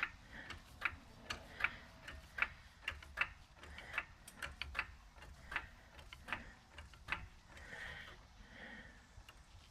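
A jack stand being set up under the car, its ratchet clicking: a run of sharp metallic clicks, evenly spaced a little more than one a second, that tails off into softer handling noise near the end.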